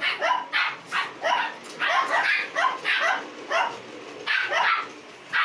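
A dog barking repeatedly in short, quick barks, about two a second.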